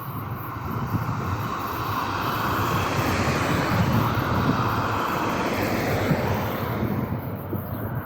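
Passenger train hauled by a CFR 060-DA diesel-electric locomotive running by, a dense rumble and rush that swells to its loudest in the middle and eases off near the end.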